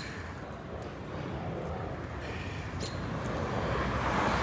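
Wind rumbling on the microphone and road noise from a moving bicycle, with a broader rushing noise swelling near the end like passing traffic.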